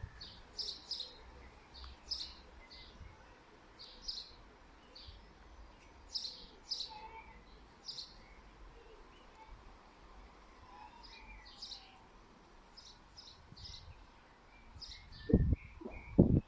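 Small birds chirping, short high calls repeating every second or so. Near the end come two loud, short, low thumps.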